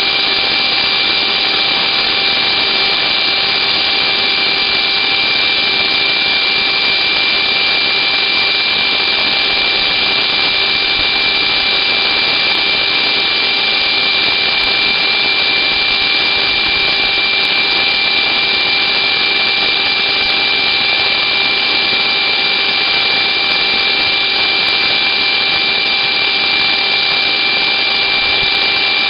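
Small Hoover vacuum cleaner's motor running steadily at full speed, a loud airy rush with a constant high whine; suction has been restored after mud was cleared out of it.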